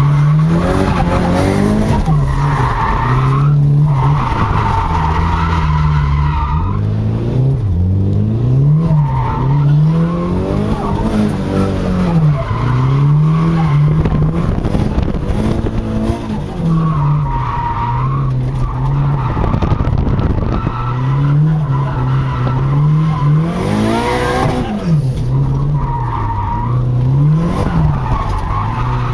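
Drift car's engine revving hard, its pitch rising and falling over and over, with tyres squealing in repeated bursts as the car slides through drifts.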